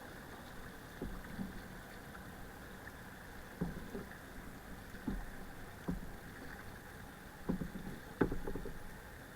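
Kayak paddle strokes in the water: short dips or splashes at an irregular pace of about one every second or so, over a steady low hiss.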